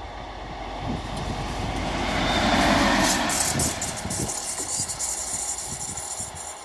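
A train passing by, growing louder to a peak about halfway through and then fading away, with repeated knocks of the wheels on the track.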